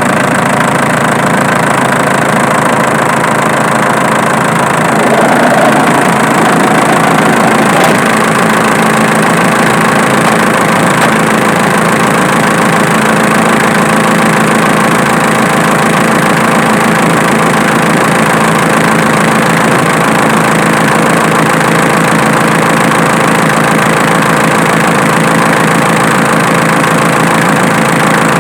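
Diesel engine idling steadily, a little louder for a few seconds about five seconds in.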